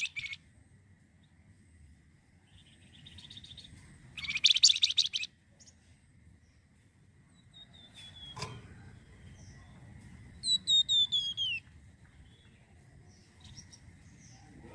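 Songbird known to Indonesian bird-keepers as the flamboyan, singing: a loud, rapid buzzy trill about four seconds in, a sharp single note near the middle, then a quick run of about six descending whistled notes about ten seconds in.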